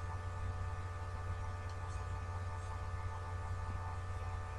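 Steady low electrical hum with a few faint steady whining tones over it, and one or two faint clicks.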